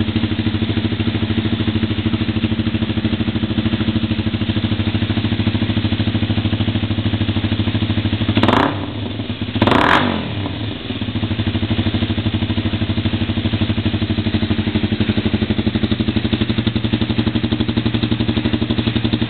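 Honda CBR250 motorcycle engine idling steadily through a newly fitted Tsukigi full-carbon aftermarket exhaust, with two quick throttle blips about halfway through before it settles back to idle.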